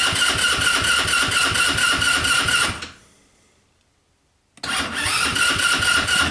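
Small Chinese side-by-side's engine being cranked by its electric starter on a cold start, a steady starter whine over a fast chugging of compression strokes, without catching. The cranking stops a little under three seconds in, and after a pause of about a second and a half it cranks again: a hard cold start.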